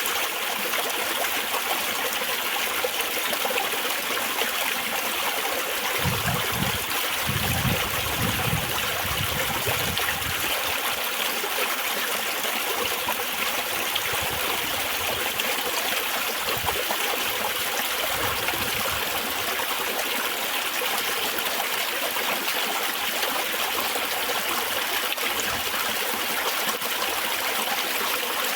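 Small stream of spring water trickling and babbling steadily, an even rushing splash with no breaks.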